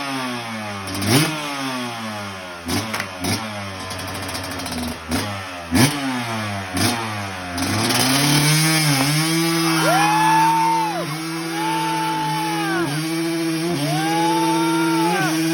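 Yamaha YZ250 two-stroke motocross engine revved in a series of throttle blips, the revs falling away after each, then held steadily at high revs from about halfway through.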